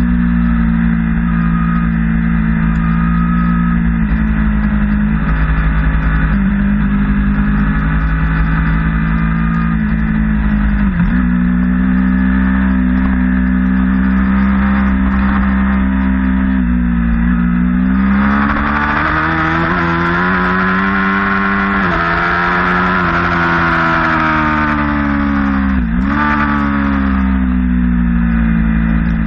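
Motorcycle engine at track speed holding steady high revs, with sudden brief dips in pitch at gear changes. In the second half it revs up hard and climbs in pitch as it accelerates.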